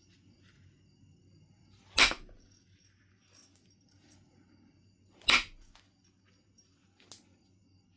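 Knife River Flint being knapped: two sharp strikes about three seconds apart, a lighter strike near the end, and small clicks of the stone being handled between them.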